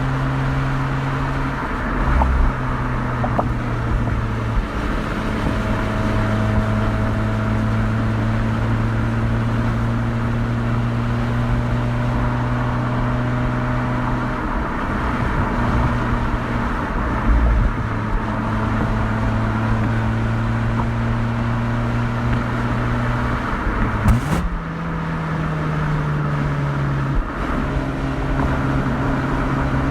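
Mazda RX-8's two-rotor rotary engine and exhaust running steadily under way at cruising speed, heard as a continuous even drone. About three-quarters of the way through the pitch sweeps up quickly and then steps back down a few seconds later, as the revs change.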